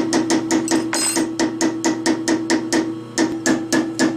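Metalworking lathe running, with a steady hum and a rapid, very regular ticking of about seven clicks a second. A brief high squeak comes about a second in.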